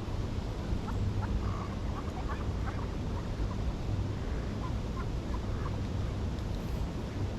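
Ducks giving short, scattered calls over a steady low background rumble.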